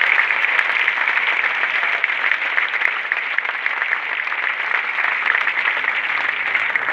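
Tennis crowd applauding steadily, a dense patter of many hands clapping, easing off slightly near the end.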